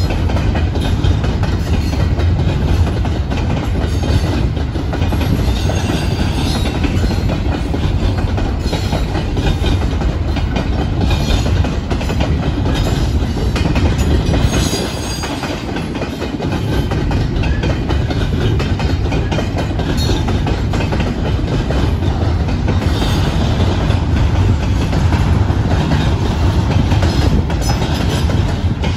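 Freight train of double-stack container cars rolling steadily past: a continuous low rumble of wheels on rail that eases briefly about halfway through.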